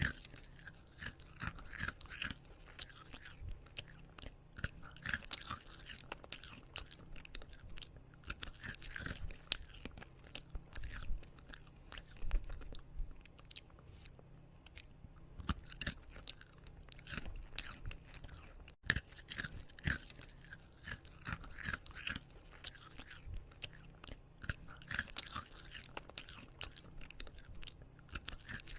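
A person chewing and biting crunchy food, a steady run of short, sharp crunches.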